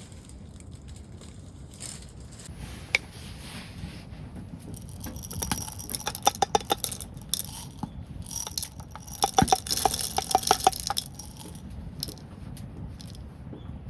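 Small hard objects, metal or glass, being handled: quick clusters of clicks and light clinks that ring briefly, bunched in the middle over a low background hiss.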